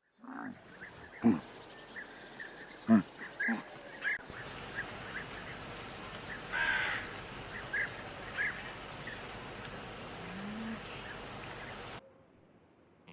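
Outdoor animal ambience: a steady high insect trill, like crickets, with scattered short bird chirps and a few brief louder animal calls; the ambience cuts off suddenly near the end.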